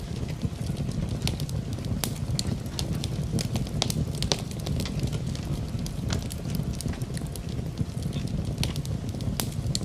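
Wood fire in a fireplace crackling, with frequent irregular sharp pops and snaps over a steady low rushing.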